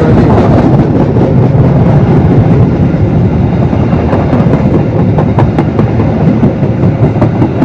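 A train passing close by: its wheels rumble and clatter over the rails in a steady stream of clicks and knocks.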